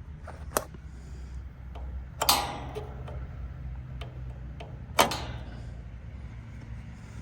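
Three sharp knocks over a steady low hum. The loudest comes about five seconds in.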